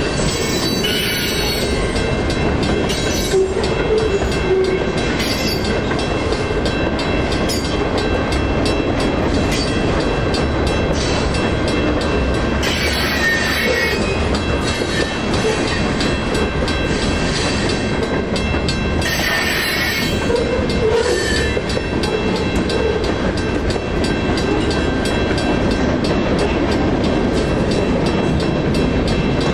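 Freight cars rolling through a grade crossing: a steady rumble and clatter of wheels on rail, with the crossing signal's bell ringing. Two brief wheel squeals come about 13 and 19 seconds in.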